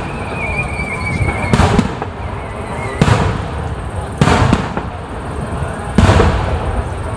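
Aerial fireworks shells bursting: four loud booms at intervals of roughly one to two seconds, each echoing after the bang. A thin high whistle sounds through the first second.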